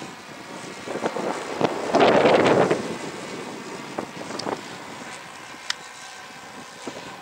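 RC trainer model airplane's motor droning faintly in flight while strong wind buffets the microphone, with a loud gust of wind noise about two seconds in.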